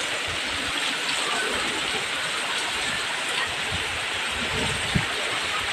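Heavy rain pouring steadily, with gusts of strong wind rumbling underneath. A single short knock about five seconds in.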